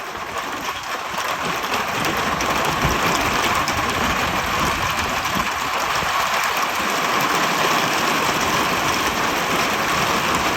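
Small hailstones pelting down in a dense, steady clatter that grows a little louder about two seconds in.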